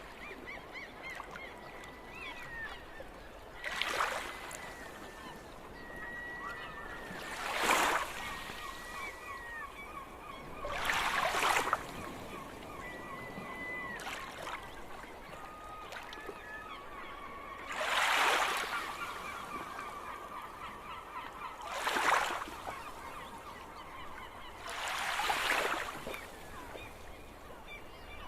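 Gulls calling: six loud, harsh calls a few seconds apart, with thinner, quieter calls and trills between them.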